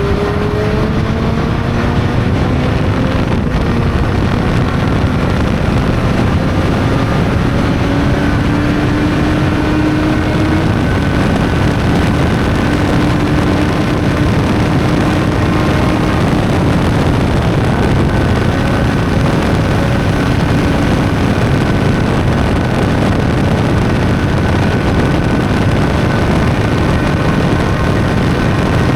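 Honda CB600's inline-four engine running under way at an easy cruise, over a steady rush of wind and road noise. The engine note climbs gently over the first ten seconds, then holds steady.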